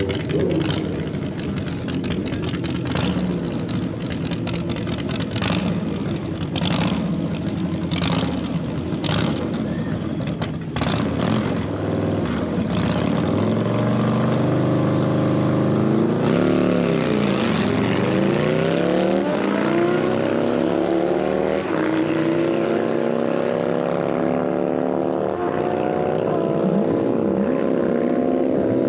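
A motorcycle engine running hard at a drag strip, with many sharp cracks through the first half. About halfway through, its note dips and comes back up, then climbs slowly and steadily as it accelerates.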